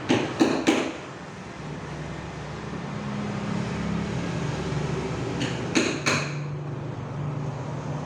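Hammer striking nails into a wooden packing crate: three quick blows at the start, a pause, then two more blows about six seconds in, over a steady low hum.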